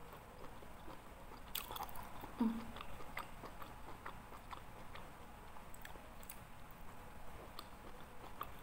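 A person chewing a mouthful of rica-rica land snail: soft, wet mouth clicks and smacks close to the microphone, with a brief low hum about two and a half seconds in.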